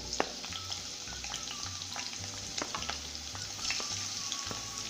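Sliced onions sizzling in hot coconut oil in a kadai, with irregular clicks and scrapes of a spoon stirring them against the pan.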